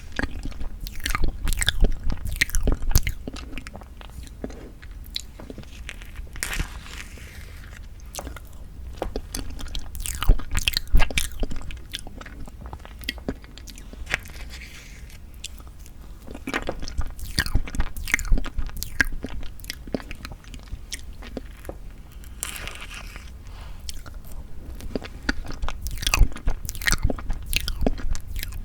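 Close-miked eating of soft tofu tiramisu cake: wet chewing and sticky mouth clicks. They come in louder spells about a second in, around ten seconds, around seventeen seconds and near the end.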